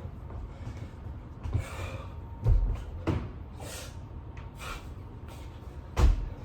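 A person breathing hard during burpees, with heavy exhaled and inhaled breaths. Two dull thuds, about 2.5 s in and again near the end, come from the body landing on the floor.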